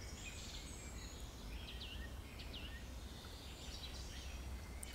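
Faint woodland ambience: a few short, high bird chirps over a low, steady rumble.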